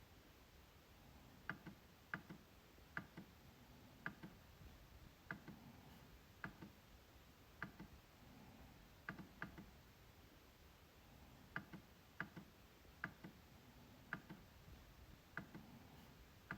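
MacBook trackpad clicking: short, faint clicks at an uneven pace, several in quick pairs like double-clicks.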